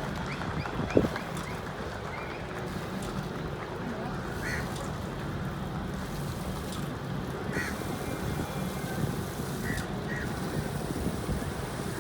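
Railway platform background: a steady low hum with faint distant voices, a short sharp sound about a second in, and a few faint brief chirps.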